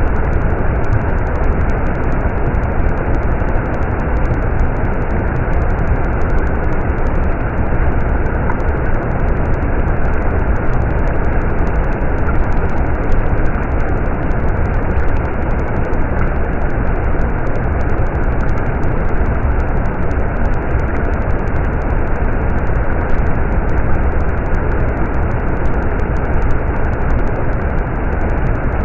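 Stream water running: a steady, unbroken rush of flowing water.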